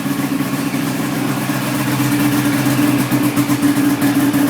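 Ski-Doo GSX 550F snowmobile's fan-cooled two-stroke twin engine idling steadily.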